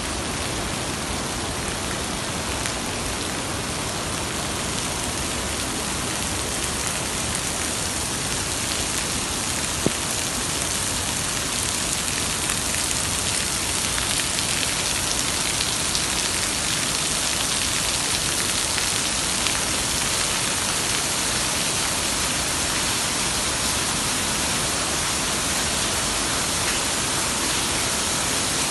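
Steady, even rush of falling water, with one sharp click about ten seconds in.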